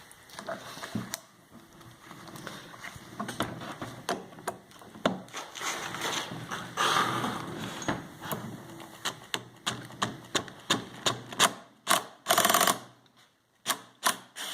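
Socket ratchet clicking in short quick runs as it turns a nut on the motorcycle engine, with a brief louder rasp about twelve seconds in.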